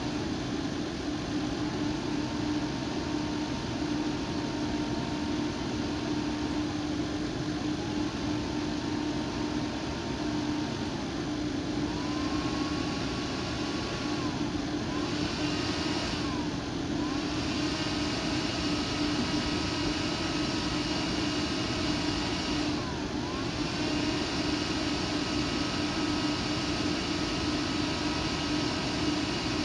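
PC air-cooling fan whirring, its whine stepping up in pitch several times as the fan speed is raised, each rise levelling off, with two sudden brief drops and recoveries in the second half over a steady low hum.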